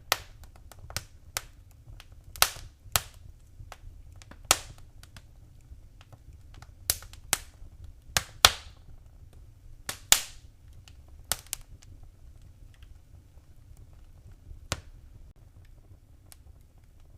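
Wood fire crackling in a fireplace: sharp, irregular pops and snaps over a low steady rumble, the pops growing sparser after about twelve seconds.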